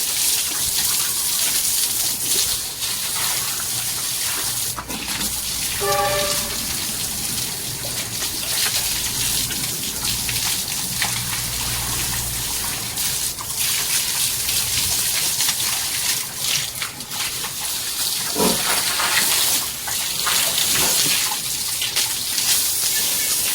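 Water from a hose spraying steadily as a pig pen is washed down. There is a short pitched call about six seconds in and another near the end.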